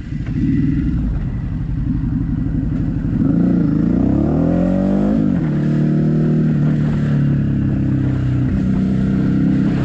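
Motorcycle engine heard from the rider's own bike, accelerating with a rising pitch and dropping sharply about five seconds in as it shifts up a gear, then running steadily at speed.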